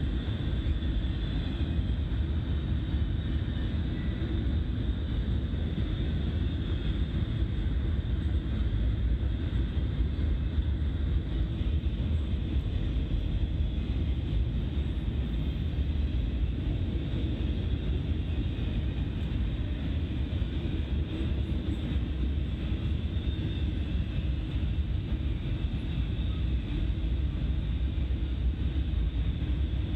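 Double-stack intermodal container cars rolling past: a steady, continuous rumble of steel wheels on the rails.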